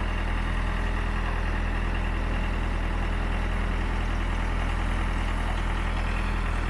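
Case 580C backhoe's engine idling steadily.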